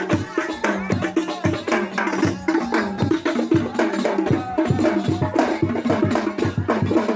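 Sholawat devotional singing with busy hand-drum percussion, many quick strokes a second in a steady rhythm.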